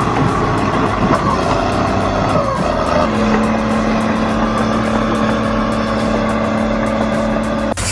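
Caterpillar bulldozer engine running as the machine works across icy ground, with background music over it. The sound cuts off abruptly near the end.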